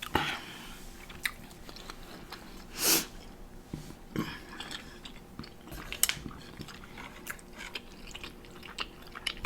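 A person chewing food close to the microphone: wet clicks and mouth noises. About three seconds in there is one louder, short rushing noise.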